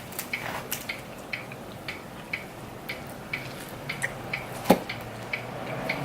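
Close-miked chewing of pepperoni pizza: quick, fairly even wet mouth clicks, about two or three a second, with one sharper click near the end.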